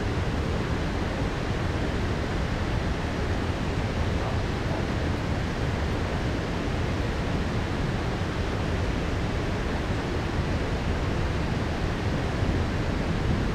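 Heavy rain falling in a downpour, a steady even rush with a deep low rumble underneath.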